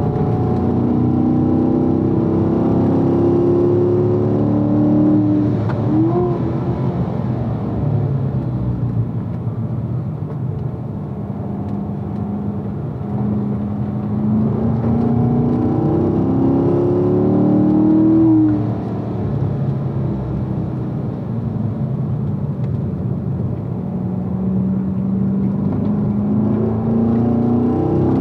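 2016 Corvette's V8 heard from inside the car on a hard track lap, driven through a 7-speed manual. The engine note climbs under throttle three times and falls away when the driver lifts to brake, most sharply about eighteen seconds in.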